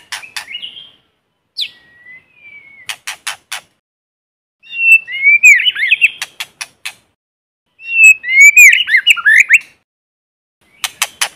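White-rumped shama singing: two loud phrases of rapid, swooping whistled notes, separated by short runs of sharp clicking notes and brief single whistles, with silence between the bursts.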